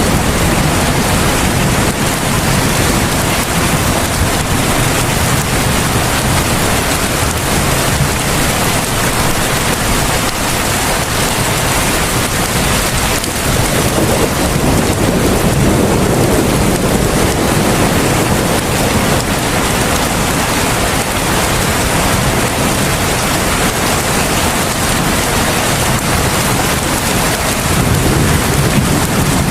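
Heavy rain falling steadily, a dense even hiss, with low rumbling swells about halfway through and again near the end.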